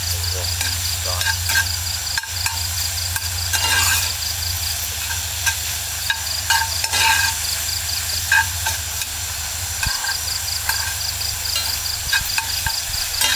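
Rain falling steadily with scattered sharp drop ticks, over a high insect chirring in rapid, even pulses and a steady low hum.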